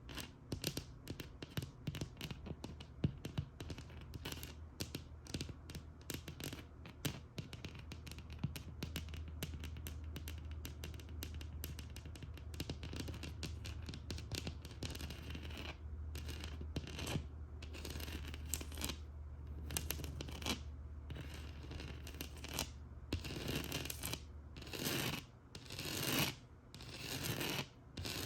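Scratching and tapping on a textured wall: quick, dense clicking strokes at first, then separate longer scratching strokes with short pauses between them in the second half.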